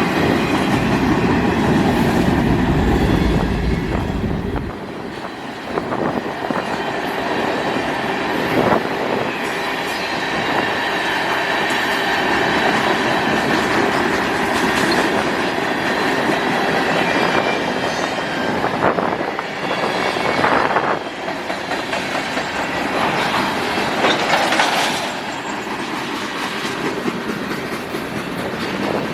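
Freight cars of a Canadian National manifest train rolling past, wheels clacking over rail joints. A heavy low rumble in the first four seconds eases off, and a high steady wheel squeal holds through the middle.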